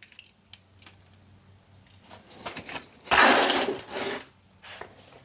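Light metallic clicks from a chainsaw chain being handled, then a louder rattling scrape about three seconds in that lasts about a second.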